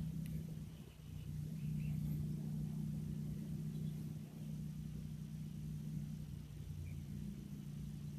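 Steady low engine hum of a motor vehicle running, with faint short bird chirps a few times over it.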